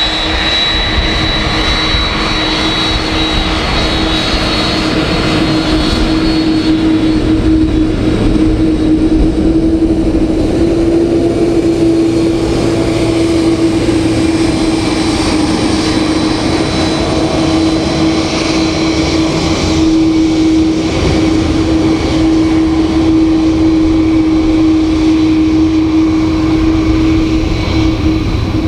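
Airbus A330-200 jet engines running steadily, a continuous rush with a held whine; a higher whine fades out in the first several seconds.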